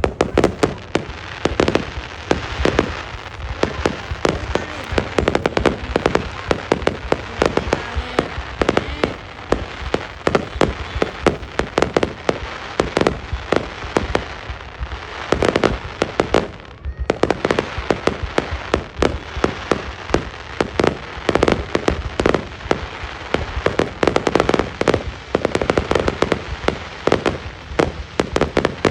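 Fireworks going off in a rapid, continuous barrage of bangs and crackles, with a brief lull a little past halfway.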